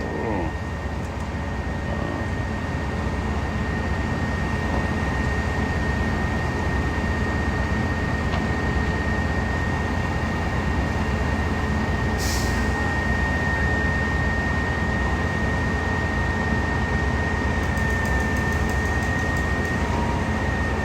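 Concrete pump truck working at a pour: heavy diesel engines run steadily with a deep rumble, under a constant high-pitched whine. A short hiss sounds about twelve seconds in.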